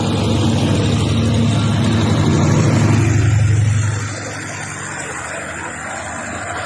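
Diesel locomotive engine running with a loud low drone that drops away sharply about four seconds in, leaving a steadier rushing noise.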